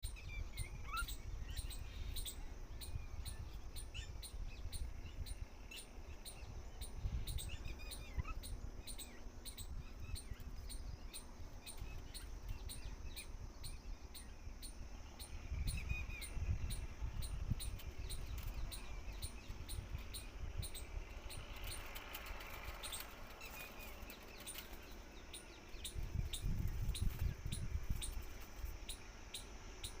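Birds chirping in short scattered calls over a regular high ticking, about two a second, with a low rumble that swells midway and near the end.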